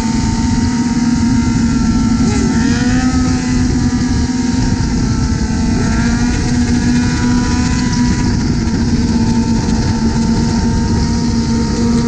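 Motorcycle engines running at highway speed: one steady engine drone, with other engines' pitches rising and falling a couple of times, under heavy rushing wind and road noise.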